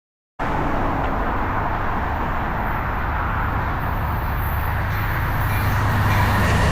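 Steady rumble of an approaching train, its low hum growing a little louder toward the end.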